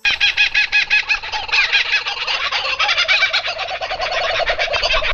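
Birds calling in a dense, rapid chatter of short repeated notes, many a second, starting suddenly.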